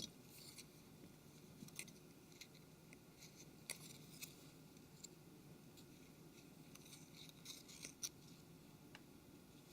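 Near silence with a few faint, scattered small clicks and taps from handling a phone's small parts and tools during disassembly.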